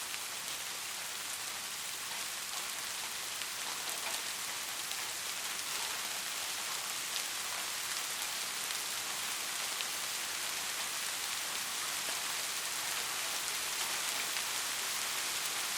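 Steady rain falling on a roof, an even hiss with many fine drop ticks.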